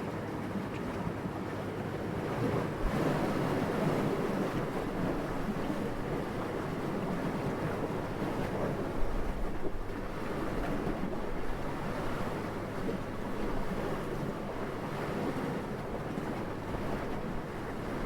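Wind blowing steadily as a soft, even rush that swells in a gust about three seconds in, with a few sharper low gusts near the middle.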